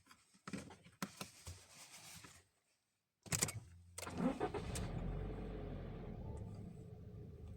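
A few clicks and rustles, then a Subaru Levorg STI Sport's turbocharged boxer four-cylinder is cranked by the starter and catches after a moment. The revs flare briefly, then settle into a steady idle.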